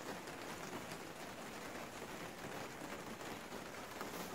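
Steady rain falling on the plastic panels of a greenhouse: an even hiss made of many small drop ticks.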